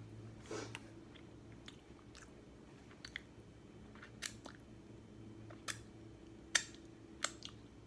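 Mouth sounds of eating: chewing and sucking food off the fingers, with short wet smacks and clicks about once a second, the loudest near the end.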